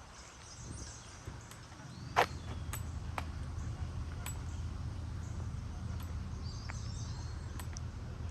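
Faint bird chirps over a low, steady outdoor rumble that comes up about two seconds in, with a few sharp clicks, the loudest about two seconds in.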